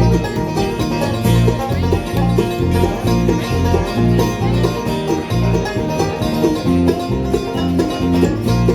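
Live band playing the instrumental intro of a country song: quick plucked string lines over a steady, rhythmic bass beat, with no singing yet.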